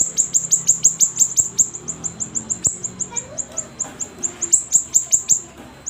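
Siri-siri songbird singing in full song: a fast run of sharp, high chirps, each sliding down in pitch, about six a second, broken by two short pauses.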